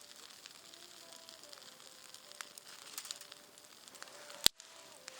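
Campfire crackling and hissing, with scattered small pops and one sharp, loud snap about four and a half seconds in.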